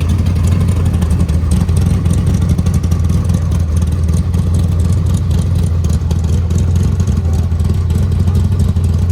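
Car engine running steadily with a loud, low rumble.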